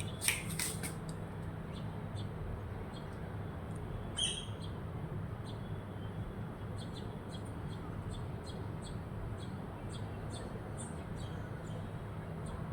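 House sparrows chirping in short, scattered high chirps, louder right at the start and again about four seconds in, over a steady low background hum.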